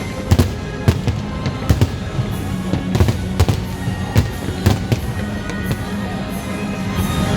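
Fireworks bursting in quick, irregular succession, several sharp bangs a second, over loud music.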